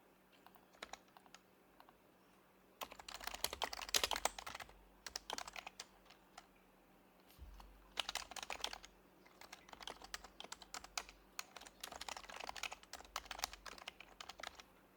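Typing on an HHKB Professional HYBRID Type-S keyboard, with its silenced Topre electrostatic-capacitive switches. A few separate keystrokes come first, then fast runs of keystrokes with short pauses between them.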